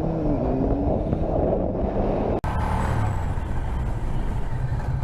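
Motorcycle riding in traffic: a steady low engine rumble under wind rush on the microphone, cut off suddenly about two and a half seconds in and followed by a steadier low engine hum.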